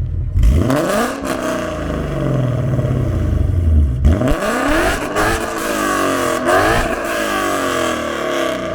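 Ford Coyote 5.0 V8 with Kooks 1-7/8 long-tube headers, a double X-pipe and unvalved Corsa Sport mufflers, revved twice in the stationary car, each rev rising in pitch toward about 4,000 rpm and dropping back. The exhaust note is pretty loud but not very raspy.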